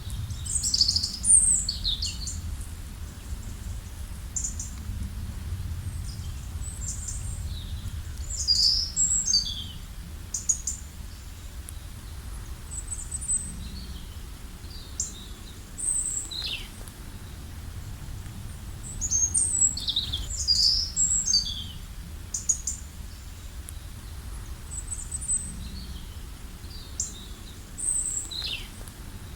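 Small songbirds chirping and calling, quick high notes and short downward sweeps coming in clusters every few seconds, over a steady low rumble.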